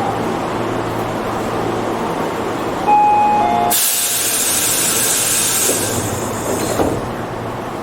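Inside a Tobu 8000 series commuter car: steady train noise, a short two-step tone about three seconds in, then a sudden loud hiss of compressed air being vented, lasting about three seconds before cutting off.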